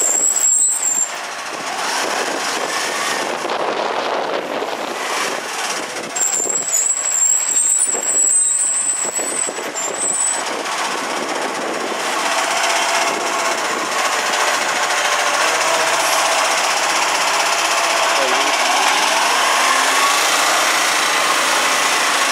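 Side-loader garbage truck working, its diesel engine running under a steady hiss and clatter. A high, thin squeal sounds briefly near the start and again for about four seconds a little later.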